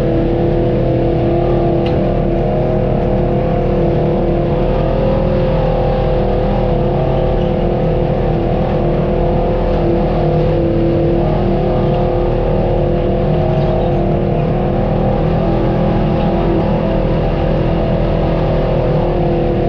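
Off-road vehicle engine running at a steady speed on a trail, a constant drone with a low rumble under it.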